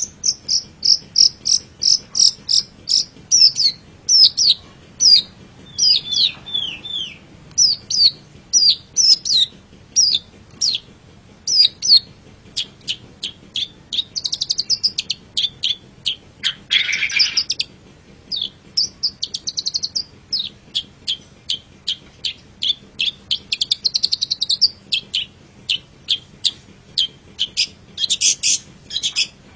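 Long-tailed shrike (cendet) singing: a rapid run of short, sharp, high notes with short trilled phrases mixed in. There is one harsh, rasping note about seventeen seconds in.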